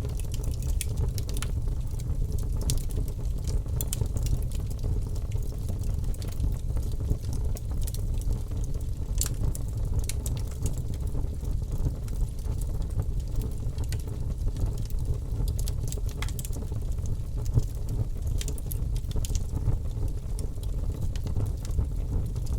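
Logs burning in a wood fireplace: a steady low rumble of the fire with scattered sharp crackles and pops.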